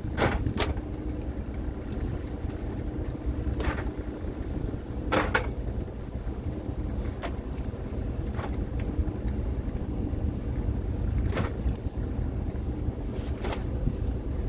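Fishing boat under way: a steady low engine and hull rumble with wind on the microphone, broken by occasional sharp knocks and clanks, about eight in all.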